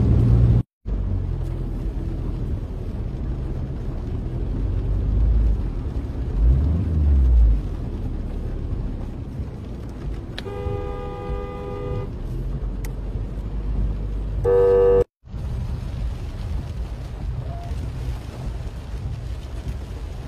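Vehicle horn sounding twice over a steady low rumble of passing traffic: one toot of about a second and a half, then a short one.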